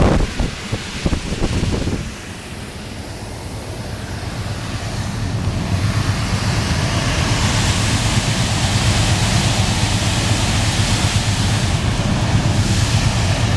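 Lennox KHA150S4B rooftop air conditioner starting up in cool mode: a few knocks, then a rushing of air and a steady low hum that build over several seconds and then hold steady.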